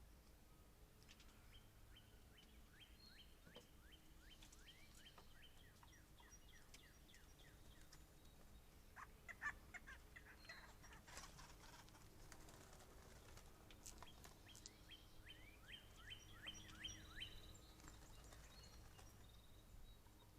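Faint bird call: a long run of quick, downward-sliding notes, several a second. The run breaks off for a few seconds of sharp clicks and taps, then starts again.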